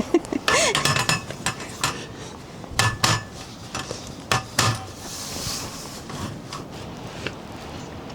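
Camp dishes and cutlery being handled: a run of sharp clinks and knocks in the first five seconds or so, then only a steady background hiss.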